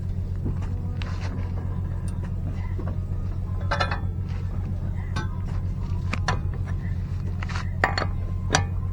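Metal tools and parts clinking and knocking now and then, about eight light strikes, over a steady low hum.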